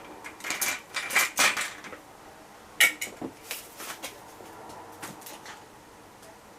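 Plastic dish tray of a countertop dishwasher being freed and pulled out. It makes a run of light rattles and clacks, with one sharp click a little under three seconds in, then a few smaller clicks.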